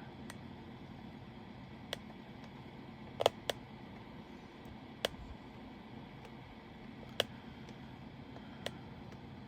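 Sparse, sharp little clicks of resin diamond-painting drills being tapped down onto the canvas with the applicator pen, one every second or two, over a faint steady room hum.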